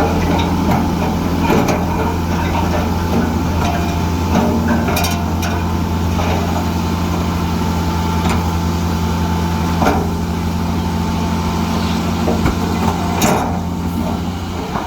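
Heavy diesel engine of earthmoving machinery running steadily, with a few sharp metal clanks and knocks over it.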